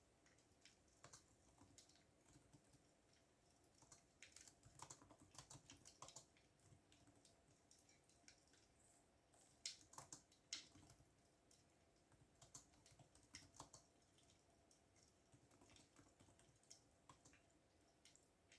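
Computer keyboard typing: faint, irregular key clicks in short runs, thickest about four seconds in and loudest around ten seconds, with pauses between.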